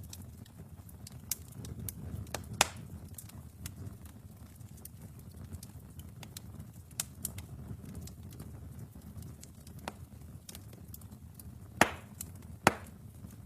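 Wood fire burning in a fireplace: a low steady rumble with constant small crackles, and sharper pops, one about two and a half seconds in and two close together near the end.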